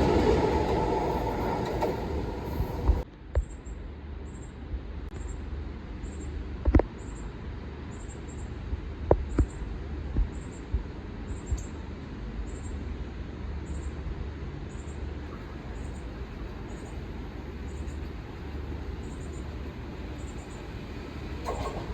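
Long Island Rail Road commuter train passing loudly and fading, then after about three seconds the sound drops suddenly to a low rumble of distant rail traffic with a few scattered knocks.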